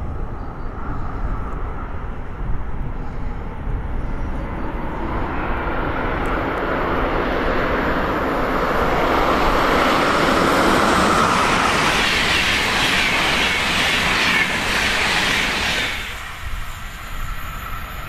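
Intercity train hauled by two DB Class 101 electric locomotives approaching and passing on the track. Its noise builds over several seconds, is loudest as the locomotives and coaches go by, then drops off suddenly near the end.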